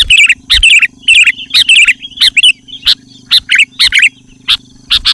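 Sooty-headed bulbul (kutilang) calling vigorously: a rapid run of short, loud, bubbly chirping phrases, several a second with brief gaps.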